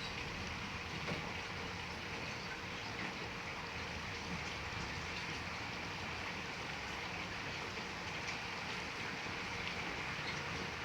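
Heavy rain falling steadily, an even hiss of drops with no change in strength.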